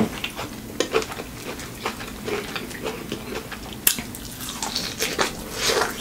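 Close-up mouth sounds of eating corn on the cob: wet chewing and smacking with crisp clicks as the kernels are bitten off the cob, one sharper click about four seconds in.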